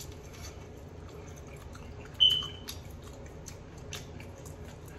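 Close-up chewing of air-fried chicken wings, with small wet clicks and smacks as the meat is bitten and pulled off the bone. About two seconds in comes a short, high-pitched beep, the loudest sound here.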